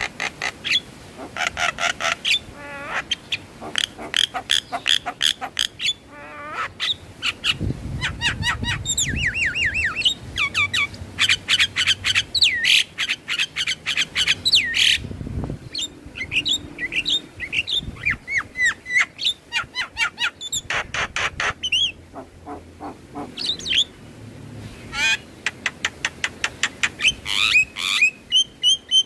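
Javan myna calling: fast runs of short, sharp chattering notes mixed with sliding whistles, broken by a few brief pauses.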